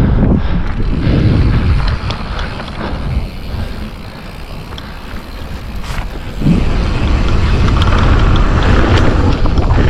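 Wind buffeting the helmet camera's microphone and mountain bike tyres rumbling over rough trail on a fast descent, with a few sharp clicks and rattles from the bike. It eases in the middle, then gets louder again after about six and a half seconds.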